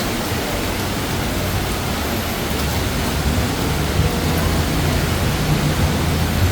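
Heavy monsoon rain pouring down in a steady, loud hiss, with a low hum underneath that grows stronger about halfway through.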